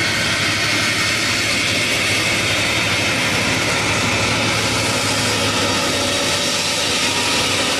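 Beriev Be-200 amphibious aircraft's twin turbofan engines running loud and steady, a low hum under a wide hiss.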